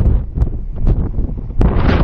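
Strong gusty wind buffeting the microphone: a heavy, uneven low rumble with scattered sharp clicks and pops.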